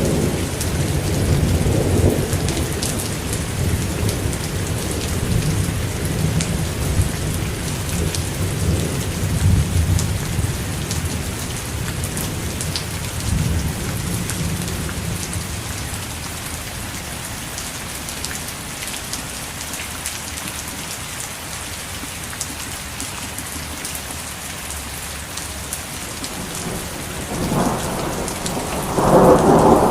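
Steady rain falling with rolling thunder: a low rumble through the first half that dies away, then a louder peal building near the end.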